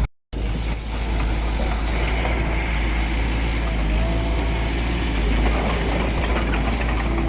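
Heavy diesel earthmoving machinery running steadily, with a deep engine rumble. The sound drops out for a moment just after the start.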